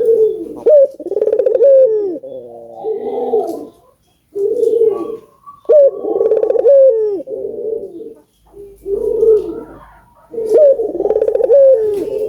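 Ringneck doves (puter) cooing in repeated phrases, each lasting a couple of seconds with a sharp rising-then-falling note, about three phrases with short pauses between.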